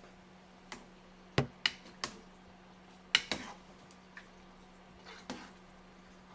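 Kitchenware clicking and knocking in a small kitchen: about seven sharp clicks and knocks at uneven intervals, loudest about a second and a half in and again about three seconds in, over a steady low hum.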